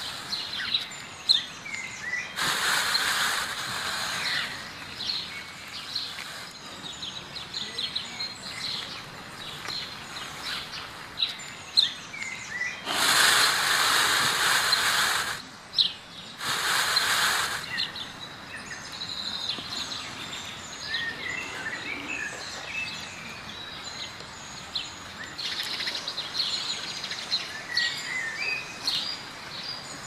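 Small birds chirping and twittering in short high calls throughout, over outdoor background noise. Several loud spells of rushing hiss, each lasting one to two seconds, come and go, the longest about halfway through.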